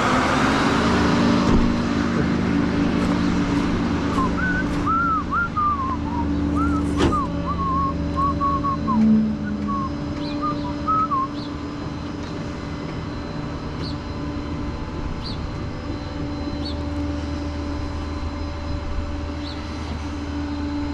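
Vehicle engine idling steadily. From about four seconds in to about eleven seconds in, a run of quick, high whistled chirps.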